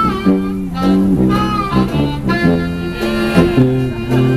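Acoustic trio of harmonica, mandolin and tuba playing an old-time jazz/Americana tune: the harmonica carries the melody over a moving tuba bass line and plucked mandolin chords.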